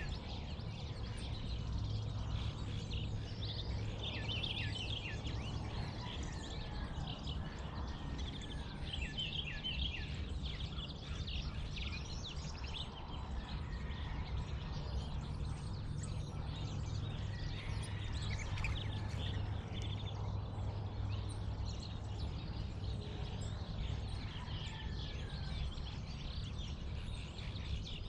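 Dawn chorus of songbirds, with bursts of quick, repeated down-slurred chirps and scattered calls, over a steady low rumble.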